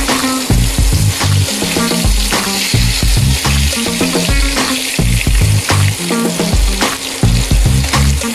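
Potato chunks frying in hot oil in a pan, a steady sizzle, while a wooden spatula stirs them with irregular light knocks and scrapes against the pan.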